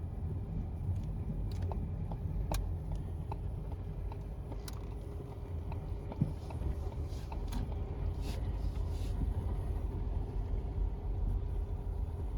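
Ford Escape driving, heard from inside the cabin: a steady low road and engine rumble with scattered light clicks and ticks.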